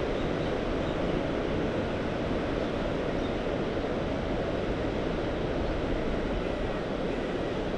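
Steady wash of sea waves on the shore, with low wind rumble on the microphone.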